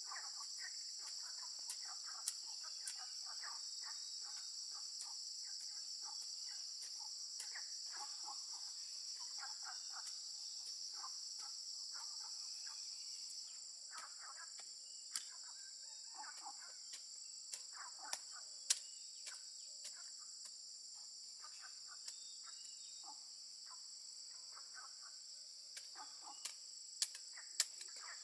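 A steady, high-pitched insect chorus that drops in level about halfway through, with chickens clucking and peeping underneath and a few sharp clicks or taps scattered through.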